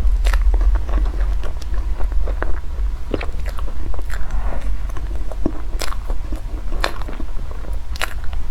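Close-miked eating: a person biting and chewing food, with scattered sharp crunchy clicks and crackles over a steady low hum.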